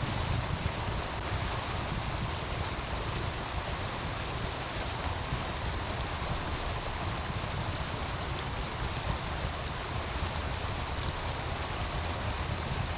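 Steady rushing of a meltwater stream with a wood fire crackling in scattered sharp pops and snaps, over a low rumble of wind on the microphone.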